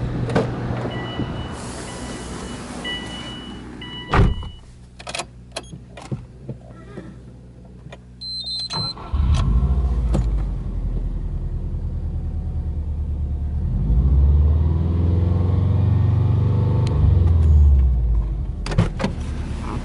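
Subaru Impreza WRX's turbocharged flat-four boxer engine starting about halfway through and then running at a fast idle of about 2,000 rpm, its note swelling for a few seconds near the end before settling. Before the start, an electronic chime beeps, a door shuts with a single thump and there are a few clicks.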